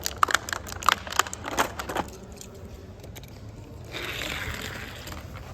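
Small toy cars clattering down a plastic Hot Wheels track: a quick run of sharp clicks and knocks over the first two seconds, then a softer hiss about four seconds in.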